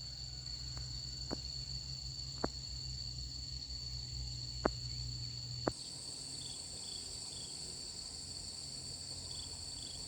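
Insects, crickets by the sound, trilling steadily at a high pitch. A few sharp clicks come in the first half, and a low hum stops about halfway through.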